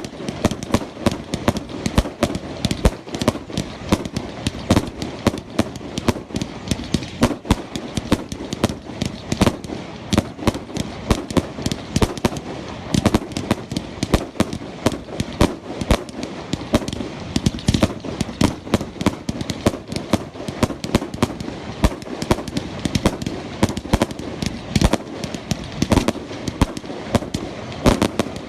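Fireworks going off in a rapid, unbroken barrage of bangs and crackles, several a second and holding at a steady intensity, like gunfire.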